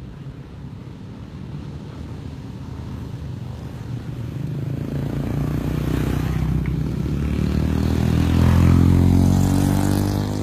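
Motorcycle engine running and drawing closer, growing steadily louder to its loudest about a second and a half before the end, then easing off slightly.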